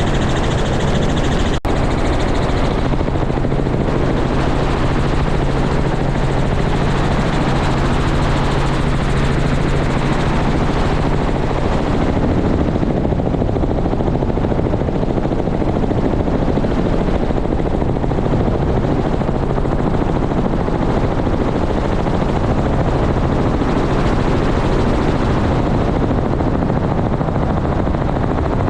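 Helicopter running loud and steady, its rotor and engine noise continuous; a steady low hum in it fades about twelve seconds in, leaving the rushing rotor noise.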